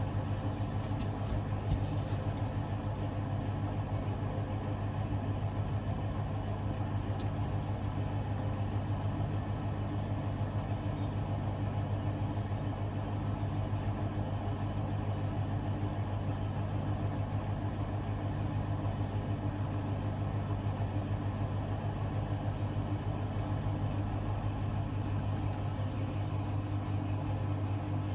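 Hoover DXOA610AHFN-80 washing machine running partway through its cycle, giving a constant low hum that holds steady without speeding up or slowing down.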